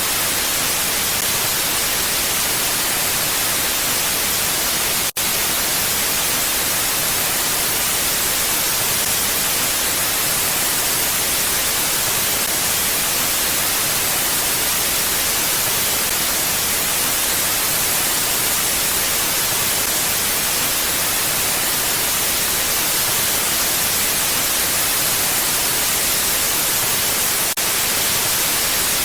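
Steady mountain wind, an even hiss without gusts, that cuts out for an instant about five seconds in.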